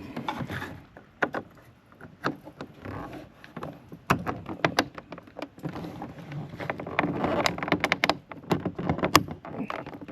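Plastic door courtesy-light lens being pushed and snapped into its opening in a Ford OBS truck door by hand: a run of sharp, irregular plastic clicks and taps, busier in the second half. The lens is brittle and is cracking under the pressure of the install.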